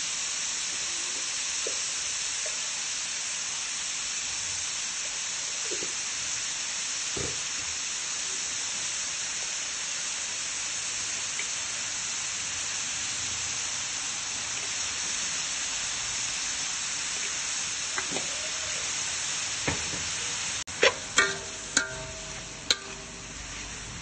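Sliced beef and ginger sizzling steadily as they stir-fry in an aluminium wok, with a few faint scrapes of the metal spatula. About three seconds before the end the sizzle cuts off and music with sharp drum strokes begins.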